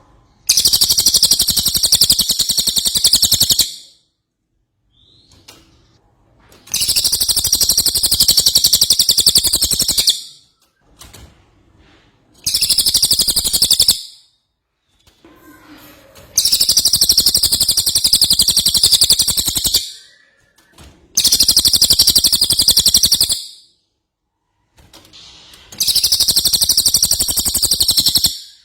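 A cililin songbird singing in loud, high-pitched bursts of very rapid trilling notes. It gives six such phrases, each two to four seconds long, with short pauses between them.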